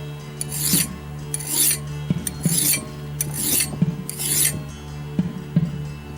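Hand file rasping across steel in about five slow strokes roughly a second apart, stopping about four and a half seconds in, over a steady low hum.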